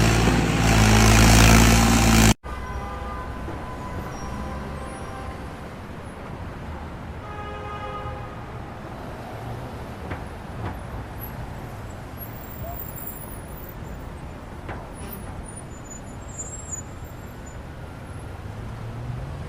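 A heavy vehicle's engine running loudly, cut off abruptly about two seconds in. Then quieter steady outdoor vehicle noise, with a brief horn toot about eight seconds in and a few faint knocks.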